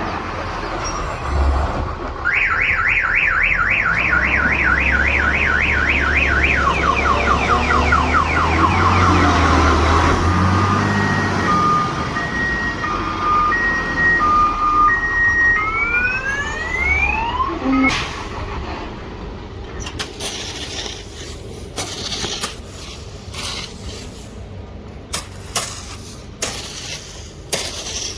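Electronic multi-tone siren cycling through its patterns: a fast warbling wail, then a two-tone alternation, then rising whoops, over a low rumble. In the last third it gives way to a run of clicks and knocks.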